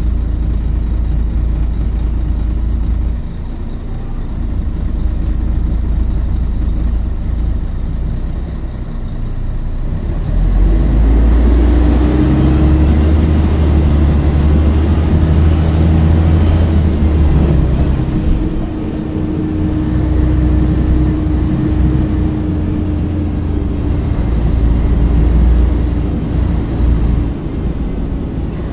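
Scania L113CRL bus running, a continuous low engine rumble. About ten seconds in it grows louder and a steady whine comes in, holding for most of the rest of the stretch before easing near the end.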